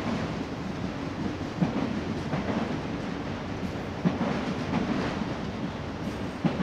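Union Pacific autorack freight cars rolling past with a steady rumble and rattle of steel wheels on rail. A sharp wheel clack comes about every two and a half seconds.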